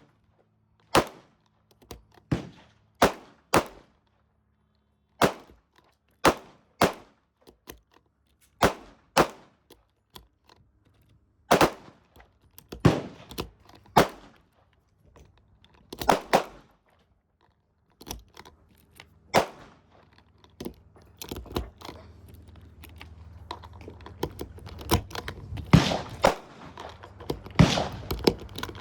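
Gunshots at a shooting range: single shots of varying loudness at irregular intervals, roughly one a second, coming faster and overlapping over a steady background noise in the last third.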